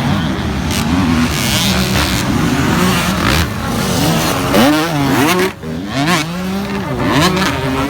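Dirt bike engine revving up and down repeatedly in a race, its pitch climbing and falling with the throttle, with a brief cut in the sound about five and a half seconds in.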